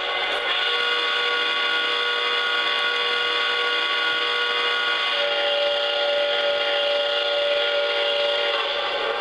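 Model steam locomotive's onboard sound system playing a chime steam whistle. The whistle is held long and steady, and its chord shifts about five seconds in.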